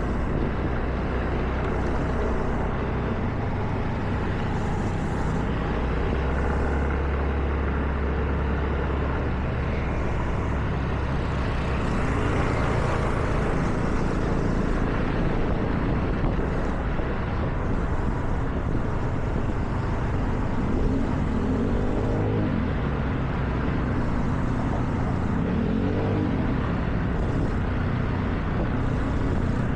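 Car driving on a wet road: steady hiss of tyres on wet asphalt over a low engine and road rumble, with the engine note rising and falling a few times.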